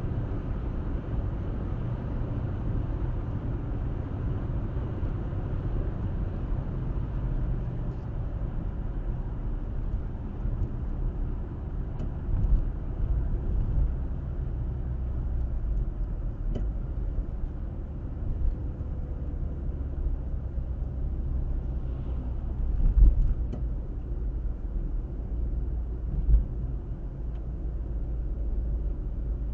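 Car driving at a steady speed, picked up by a dashcam microphone: a steady low rumble of tyres and engine, with a few brief louder thumps about halfway through and twice near the end.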